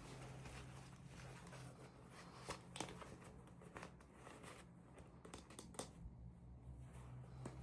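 Faint handling of packaging during an unboxing: soft crinkles and several short, sharp clicks and taps, over a low steady hum.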